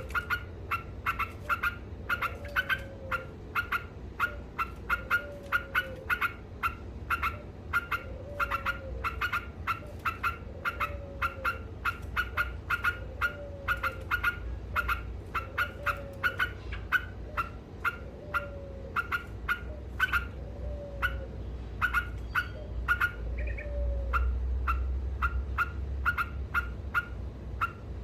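Trucukan (yellow-vented bulbul) singing its fast, unbroken 'ngekek' chatter of short notes, several a second. A lower falling call repeats about every two and a half seconds.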